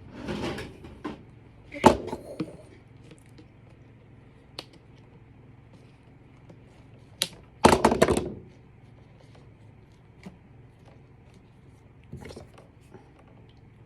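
Thunks and clatter of a vacuum sweeper being handled, with no motor running: a sharp knock about two seconds in and a louder rattling clatter about eight seconds in.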